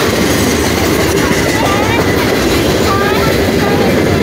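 Freight cars rolling past at close range with a steady, loud rumble of steel wheels on the rails.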